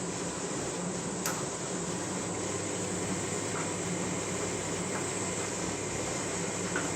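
Candy washing machine running steadily mid-wash, a low, even mechanical hum, with a sharp click about a second in. The load is heavily over-sudsed from waterproofing liquid used in place of detergent.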